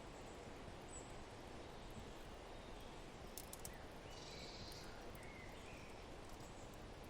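Faint ambience of a steady wind, with a few short bird chirps about halfway through and a couple of sharp fireplace crackles just before them.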